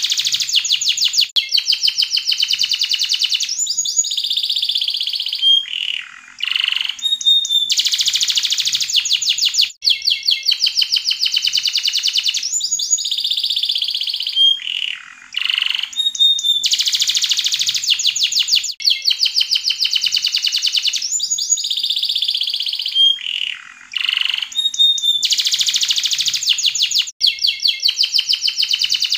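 Yellow domestic canary singing long phrases of fast rolling trills and quick sweeping whistles, with brief pauses about every nine seconds.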